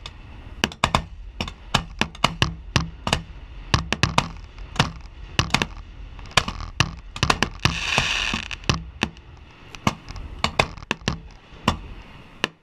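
Fireworks going off in quick succession: many sharp bangs and cracks, several a second at irregular spacing, with a burst of hiss about eight seconds in.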